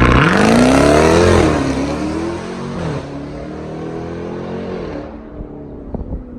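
2018 Jeep Grand Cherokee Trackhawk's supercharged 6.2-litre V8 running through a Borla ATAK cat-back exhaust, accelerating hard. Its pitch climbs, drops about a second in, climbs again and falls, then the sound fades away over the last second or so.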